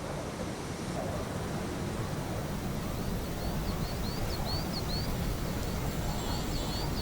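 Steady rushing outdoor background noise. About three seconds in, a quick series of about eight short, high chirps comes through, with a few fainter ones near the end.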